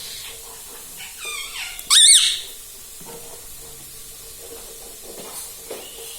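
Pet Indian ringneck parrot calling: a few soft falling chirps, then about two seconds in one loud, high, squeaky call with a wavering pitch.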